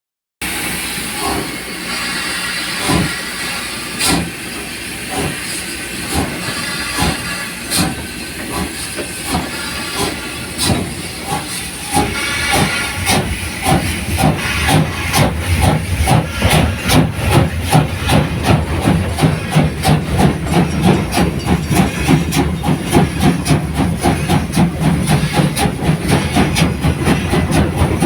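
Steam locomotive hissing steam, its exhaust beats about a second apart at first, then louder and quickening to several a second over the second half, as it pulls away and gathers speed.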